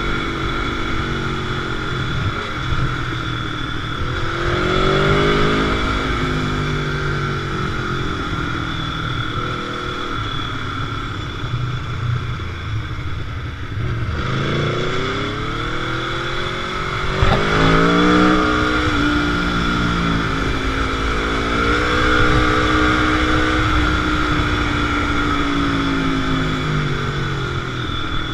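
Motorcycle engine running under way, its pitch rising and falling repeatedly as the rider accelerates and backs off, over a steady rushing noise. The loudest acceleration comes about two-thirds of the way through.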